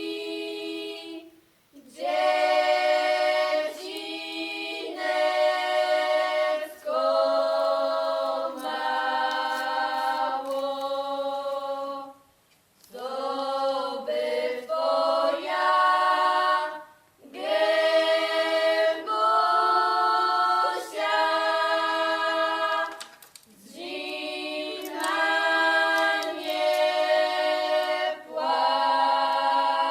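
Background music: an a cappella choir singing slow, sustained phrases, with brief pauses between phrases.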